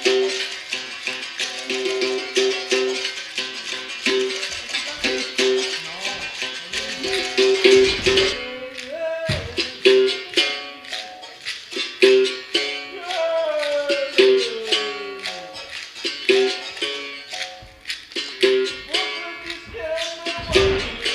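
Berimbau, the capoeira musical bow, struck in a steady rhythm that alternates between two low notes, with a shaker rattle going along with it. About halfway through comes a long falling pitch slide.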